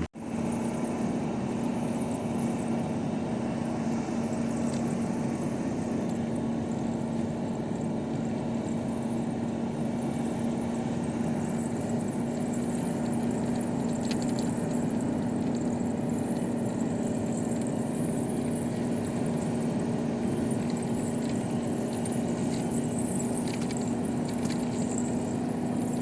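Hino truck's diesel engine running at a steady speed: an even drone with a constant hum that does not change throughout.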